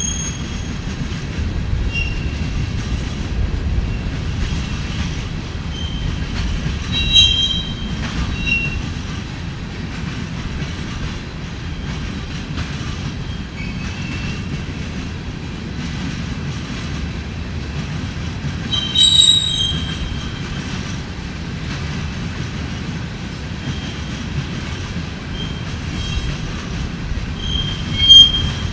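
Empty rock hopper cars of a freight train rolling past with a steady low rumble of wheels on rail. Short, high-pitched wheel squeals come and go, with loud ones about a quarter of the way in, two-thirds of the way in and near the end.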